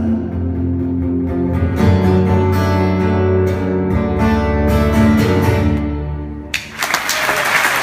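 Live rock band ending a song, with guitar chords ringing out over bass; the music stops about six and a half seconds in and the audience breaks into applause.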